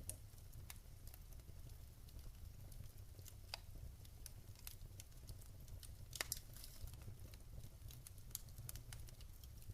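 Wood fire crackling in a fireplace: irregular sharp pops and snaps, two louder ones about three and a half and six seconds in, over a faint low steady rumble.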